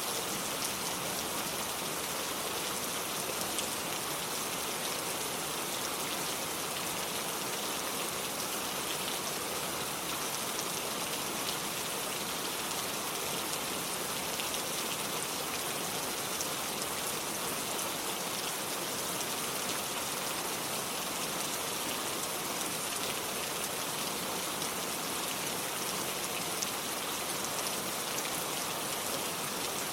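Steady rain falling and pattering on surfaces, an even hiss with fine crackle of drops.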